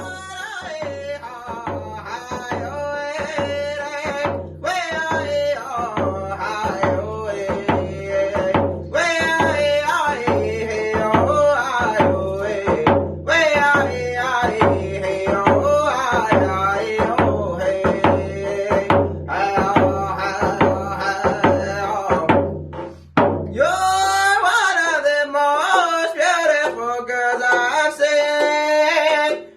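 A singer singing to a steady drum beat. The drum stops about twenty-five seconds in and the singing carries on alone, higher.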